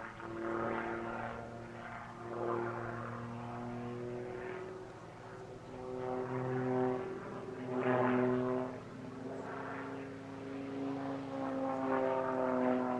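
Single-engine propeller aerobatic aircraft flying a display, its engine note shifting up and down in pitch and swelling and fading in loudness as it manoeuvres.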